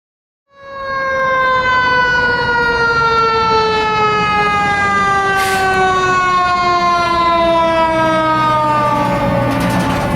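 Fire truck siren sounding over the truck's engine, starting about half a second in as one long wail whose pitch slowly falls. A brief hiss about halfway through.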